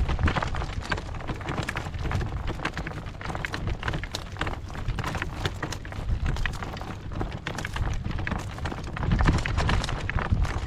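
Hoofbeats of a ridden horse moving over farm ground, with saddle and tack noise. A steady low rumble of wind on the microphone runs underneath.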